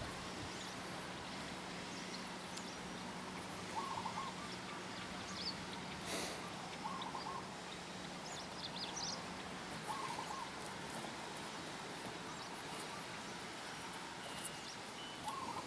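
Birds calling in the background: a short warbled call repeated every three seconds or so, with scattered higher chirps over a steady outdoor hiss. A faint low hum runs under the first half.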